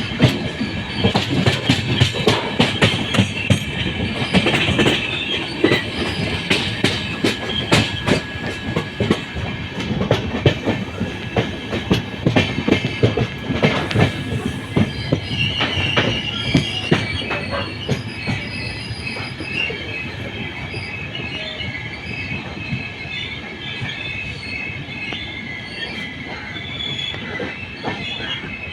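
Wheels of LHB passenger coaches running on the rails: steady high-pitched wheel squeal, with irregular clicking and clattering over rail joints, heavier in the first half.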